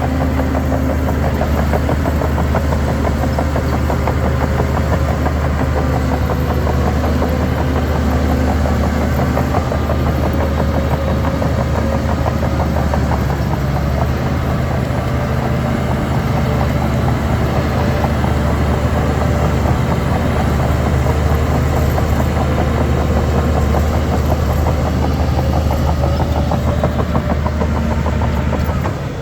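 Heavy diesel engine of a Shantui DH17 C3 bulldozer running steadily, its pitch drifting slightly up and down.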